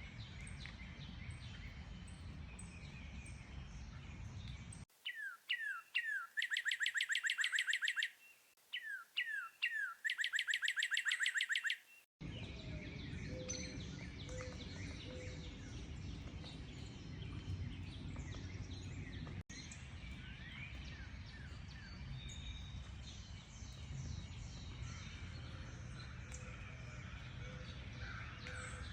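Several wild birds chirp and call over a steady low outdoor rumble. About five seconds in, a single songbird sings two loud phrases against a silent background. Each phrase is a few quick downward-slurred whistles, then a fast, even trill lasting a couple of seconds. The mixed chorus then returns.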